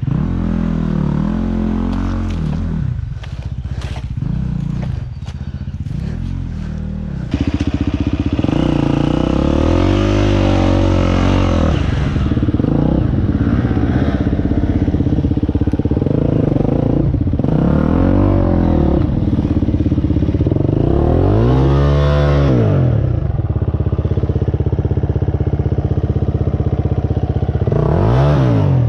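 Husqvarna enduro motorcycle engine revved in repeated bursts. Its pitch rises and falls about seven times over a steady running note as the bike is worked through deep mud.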